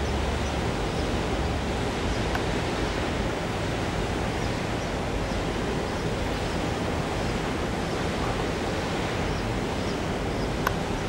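Steady rushing noise with a low rumble: wind on the microphone mixed with a distant electric passenger train running away along the line. One faint click near the end.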